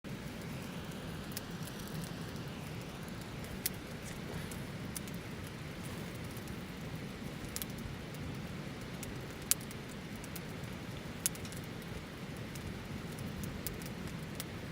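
Wood campfire burning: a steady low rumble of the flames with sharp crackles and pops every second or two, the loudest about two thirds of the way through.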